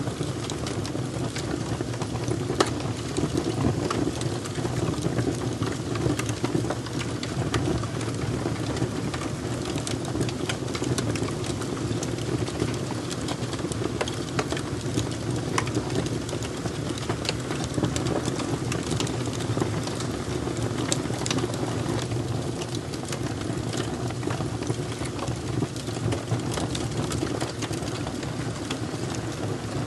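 Fire crackling, with frequent sharp pops and snaps over a steady low rumble.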